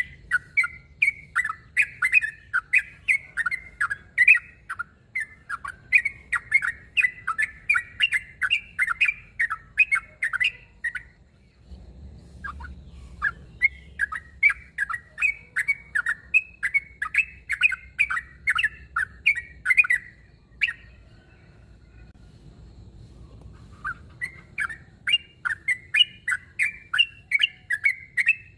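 Yellow-vented bulbul (trucuk) singing its challenging 'narung' song: long runs of short, bubbly notes, two or three a second. The song breaks off twice for a few seconds, about eleven seconds in and again about twenty seconds in.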